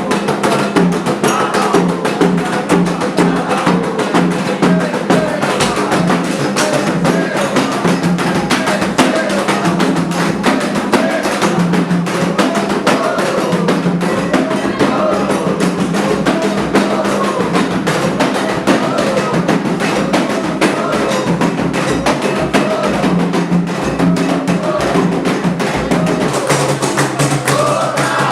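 Candomblé ritual music: a fast, steady rhythm of hand drums with a bell or wood-block-like beat, and voices singing over it.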